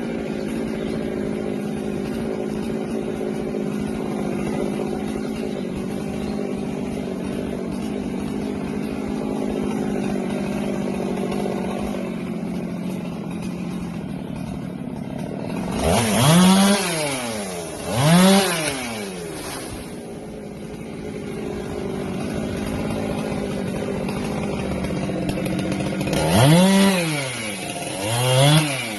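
Husqvarna 390XP two-stroke chainsaw running steadily at high speed, then revved up and let down four times in two quick pairs, each rev a fast rise and fall in pitch.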